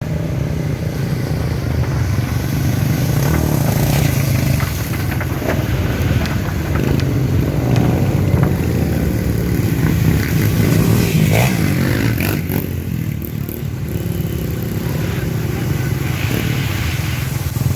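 Trail motorcycle engine running steadily, its level rising and falling a little, with a few short clicks and clatters.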